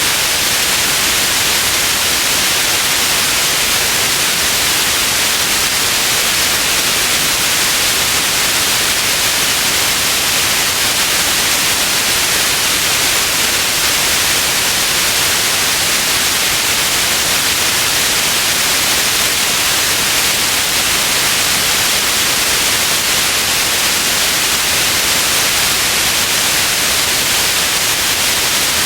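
Steady white noise: an even hiss that does not change, strongest in the treble.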